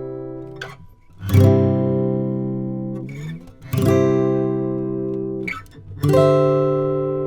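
Kanileʻa KG-1 Core Silk strummed: three full chords about two and a half seconds apart, each left to ring out and fade, with short scrapes of fingers on the strings between them.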